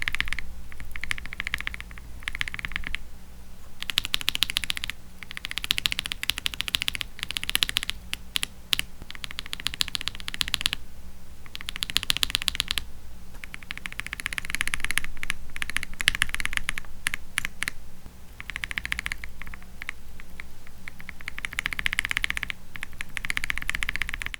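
Fast typing on a mechanical keyboard fitted with Akko CS switches, in bursts of rapid keystrokes with short pauses between them.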